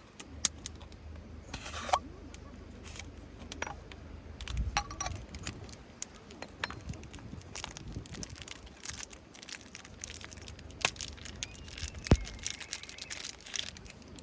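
Irregular clicks, knocks and clinks of objects being handled, with a low steady hum underneath.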